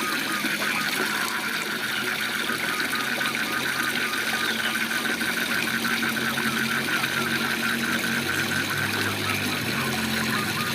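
Waterfall rushing steadily, with frogs calling over it in a fast, evenly pulsed rhythm and a lower steady drone from other calls that fades in and out.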